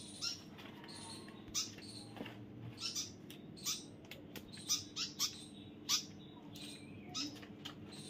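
Birds chirping: short, high chirps, about two a second at uneven spacing.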